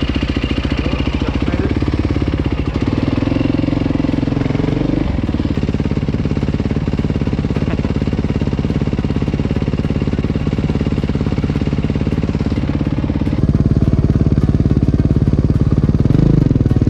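Dirt bike engine running under way, its pitch rising and falling with the throttle. It gets louder about 13 seconds in.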